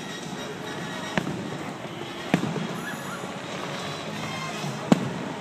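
Aerial fireworks bursting: three sharp bangs, about a second in, a little past two seconds, and near the end, over background music.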